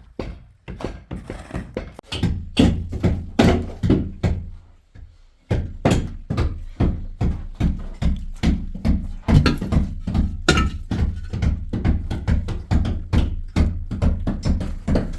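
Rapid rhythmic thuds, about three a second, pausing briefly about five seconds in before going on.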